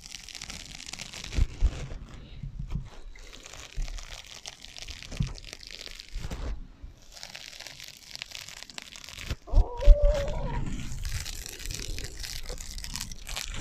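Fingernails scratching on sponges with an echo effect added: stretches of crunchy, crinkly scratching broken by short pauses, with a few dull knocks about one and a half and ten seconds in.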